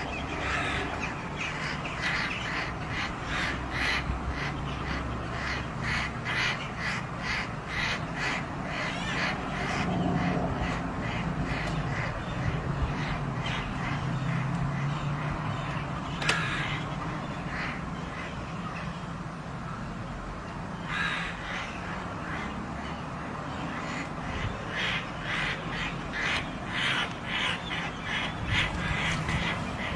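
Birds calling in quick runs of repeated notes, several a second, with a thinner stretch in the middle.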